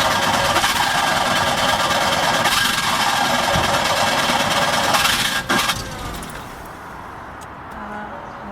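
Skoda Favorit's four-cylinder engine running loudly and steadily during a difficult start, then dropping to a quieter level about five and a half seconds in.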